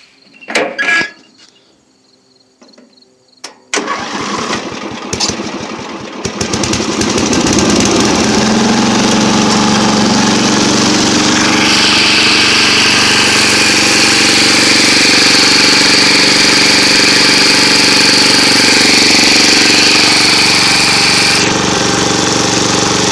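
1973 Sears Craftsman lawn tractor's small engine cranking and catching about four seconds in, then running steadily, freshly brought back to life by a carburetor cleaning and new air filter. A higher whine rides over the engine from about halfway until near the end.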